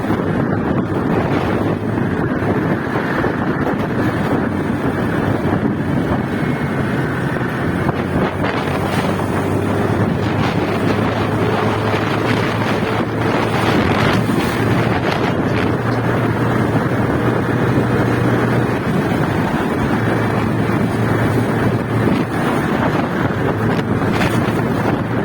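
Wind buffeting the microphone of a moving motorcycle, over the steady drone of its engine.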